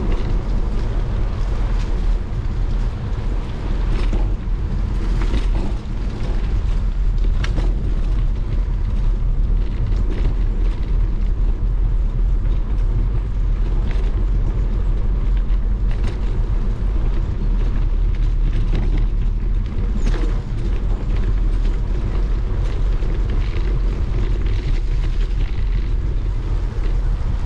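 Riding a bicycle in the rain: a steady low rumble of wind buffeting the microphone over the hiss of tyres on a wet path, with scattered small clicks and rattles from the bike.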